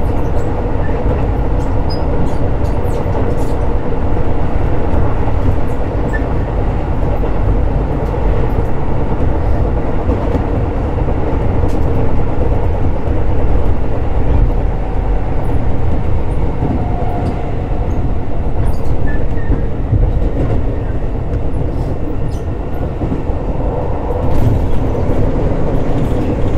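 Keisei 3600 series electric train running steadily, heard from inside the car: a continuous low rumble of wheels on rail with a steady drone and occasional faint clicks.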